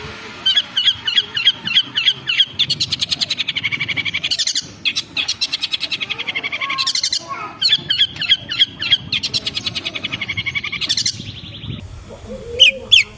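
Long-tailed shrike (cendet) singing a fast chattering run of sharp, evenly repeated notes, picking up speed. It breaks off briefly about four and a half seconds in, runs on again until about eleven seconds, and a few more notes come near the end.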